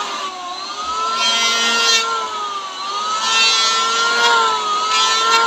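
Handheld electric power tool running with a steady motor whine, its pitch sagging three times under load and recovering, with bursts of cutting hiss.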